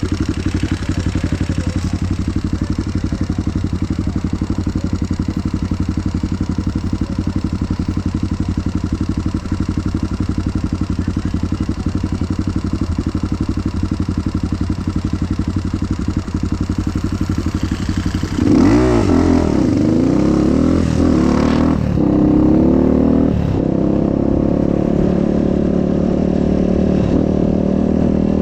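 Dirt bike engine idling steadily, which the rider says is struggling after its spark plug got wet. About two-thirds of the way through it is revved several times and pulls away, its pitch rising and falling with the throttle.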